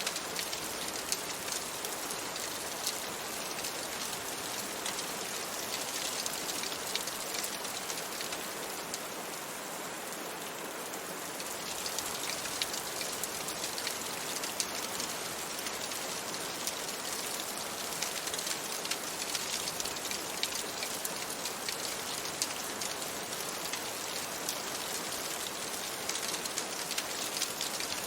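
Steady rain falling on a window, an even hiss dotted with many small sharp ticks, layered with the crackle of a wood fire in a fireplace.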